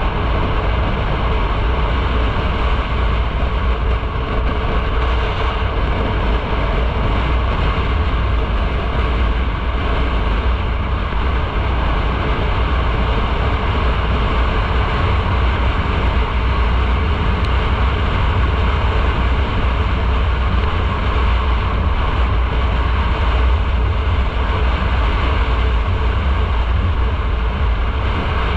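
Steady wind rush and road noise from a motorcycle riding at speed, with a deep rumble of wind on the microphone that buries the engine.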